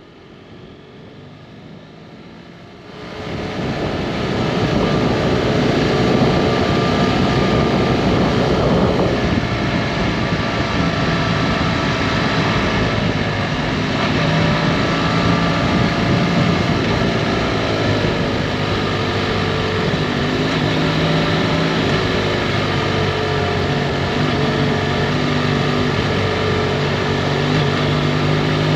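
Motorcycle riding at speed: a BMW F800GT's parallel-twin engine under a steady rush of wind and road noise, its pitch rising and falling with throttle and gear changes. It comes in loudly about three seconds in, after a faint start.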